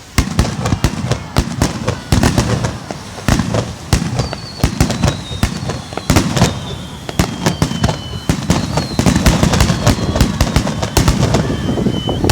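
Fireworks display: shells bursting in quick, dense bangs with a crackling rumble under them. A high whistle falls slowly in pitch through the middle.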